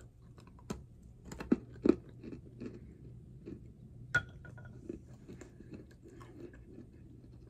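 A person biting and chewing a crunchy piece of white edible clay, with scattered sharp crunches, the loudest about two seconds and four seconds in.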